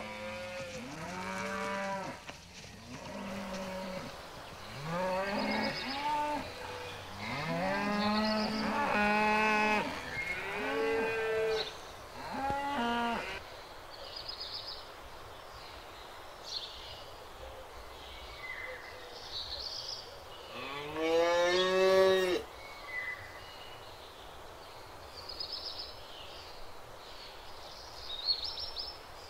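Several cattle mooing, calls of different pitches overlapping one another through the first half, then a quieter stretch broken by one long, loud moo about two-thirds of the way through.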